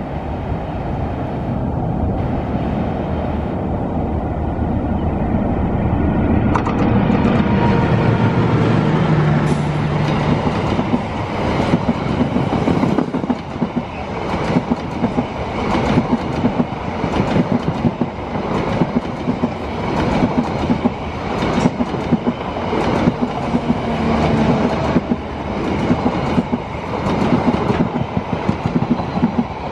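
Diesel-hauled passenger train approaching and passing close by. The locomotive's engine hum builds over the first several seconds, then the coaches roll past with a steady, rhythmic clickety-clack of wheels over the rail joints.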